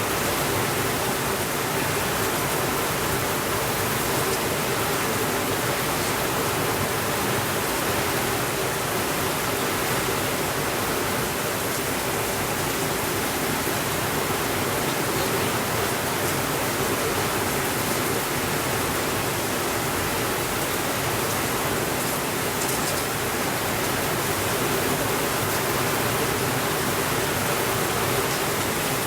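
Steady rainfall, a constant even hiss at an unchanging level, with a few faint soft ticks now and then and no thunder.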